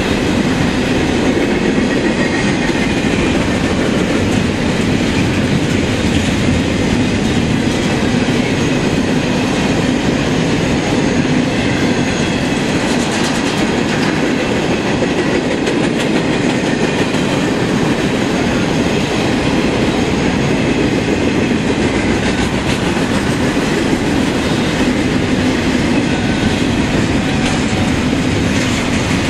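CSX double-stack intermodal freight train's well cars rolling past: steady noise of steel wheels on the rails, with a few clacks over rail joints around the middle.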